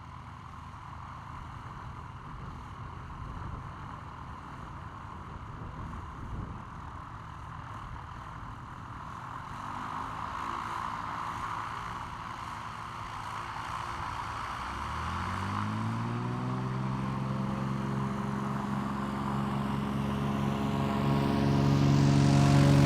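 Light propeller aircraft's piston engine approaching and growing steadily louder. About fifteen seconds in, its engine note rises in pitch, then holds steady.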